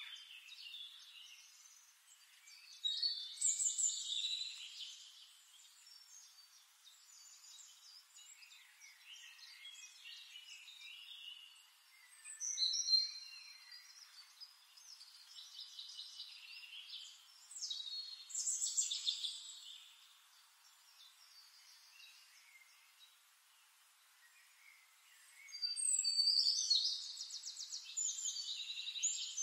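Birdsong: several bursts of high chirps and short whistles, ending in a long, fast trill near the end.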